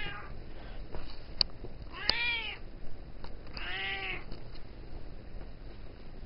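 Bombay cat meowing twice, about a second and a half apart, each meow rising then falling in pitch: attention-seeking meows from a cat that wants to be petted.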